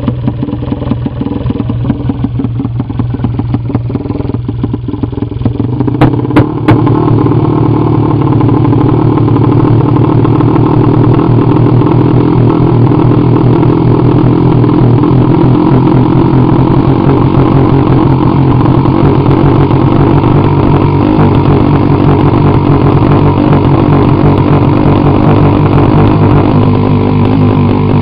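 A 230cc fuel-injected prototype motorcycle engine, with a new cylinder head, running under test. It runs unevenly at a lower speed at first; about six seconds in there are two sharp clicks, and it picks up to a louder, steady higher speed that it then holds.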